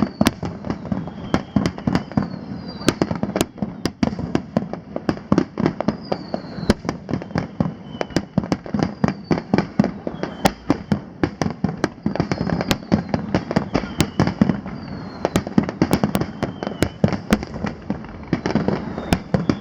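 Aerial fireworks display: a rapid barrage of shell bursts and bangs, several a second, with repeated short falling whistles.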